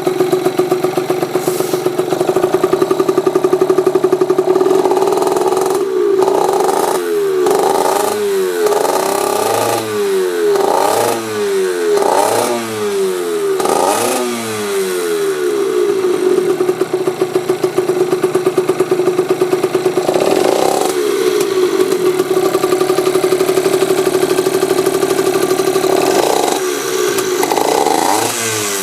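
Yamaha TZR50R's 50cc two-stroke single, breathing through an aftermarket expansion-chamber exhaust, idling steadily. After about six seconds it is blipped repeatedly, with the pitch rising and falling quickly about once a second. It settles back to idle, then gets a few more blips near the end.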